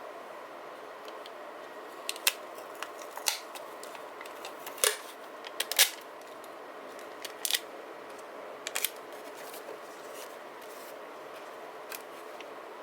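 Sharp clicks and snips from hands working paper-crafting supplies at a desk, many coming in quick pairs, over a steady faint hiss. The clicks fall mostly in the first two-thirds, with one more near the end.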